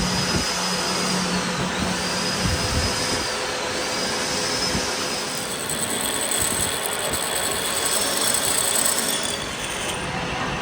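A power tool running steadily, its high whine dipping briefly and recovering several times.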